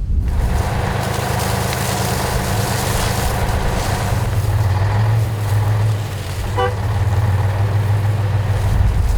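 A motor vehicle engine running steadily under a broad hiss, with one short horn toot about two-thirds of the way through.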